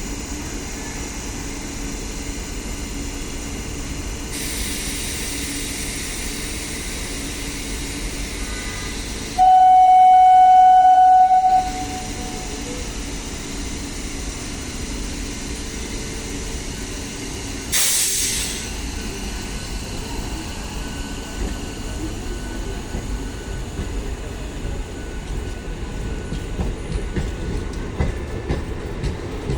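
MEMU electric train running with a steady rumble and hiss. Its horn sounds once for about two seconds, a third of the way in, much louder than the rest. A short sharp burst of air hiss comes just past the middle.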